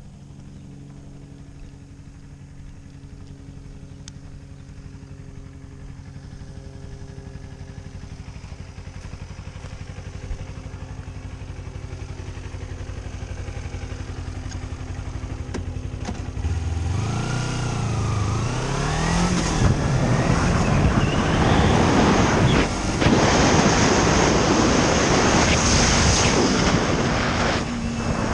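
A motor vehicle engine runs steadily and slowly grows louder. About two-thirds of the way in it accelerates, its pitch rising in steps, and a loud rush of road and wind noise follows.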